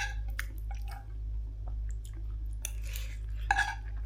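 A person chewing food, with irregular wet mouth smacks and a few light clicks, over a steady low hum.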